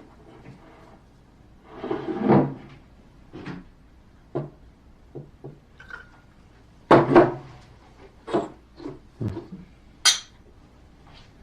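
Glasses and dishes handled on a table: a series of separate knocks and clinks, with a sharp high clink near the end.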